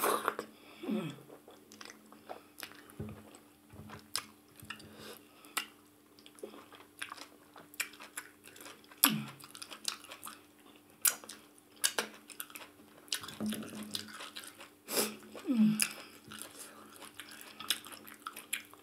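Close-miked eating of maize fufu with slimy ogbono soup: wet chewing and lip-smacking clicks throughout, with brief falling hums about a second in, halfway through and about three-quarters through.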